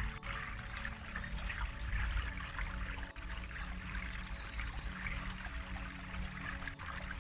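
Water trickling and babbling like a small stream, a continuous patter of small splashes, over a low steady hum.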